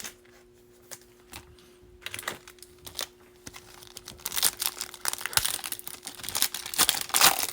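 A trading-card pack wrapper being torn open and crinkled. A few light clicks come first, then steady crinkling that gets louder over the last few seconds.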